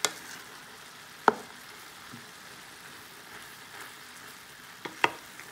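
Minced lamb and cabbage sizzling with a steady hiss in a metal frying pan as they are stirred together with a spatula. The spatula knocks sharply against the pan a few times, the loudest about a second in and two close together near the end.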